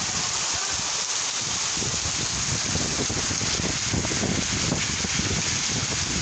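Heavy rain of a kalbaishakhi (nor'wester) storm falling steadily in a dense hiss, with a deeper low rumble coming in about two seconds in.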